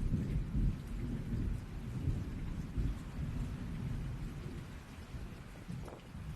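Steady rain falling, with a low rolling rumble of thunder underneath that is strongest at the start and eases off near the end.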